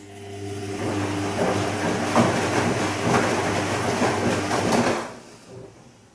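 Bosch Serie 2 VarioPerfect washing machine's drum turning during the gentle Silk wash: a steady motor hum with the wash tumbling. It builds over the first second and stops about five seconds in, one short drum movement between rests.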